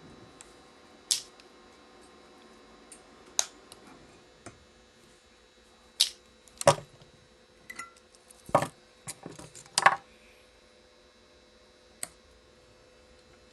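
Sharp clicks and taps of stringing-machine clamps, tools and string being handled while the main strings of a badminton racket are tied off, a dozen or so, bunched together in the middle.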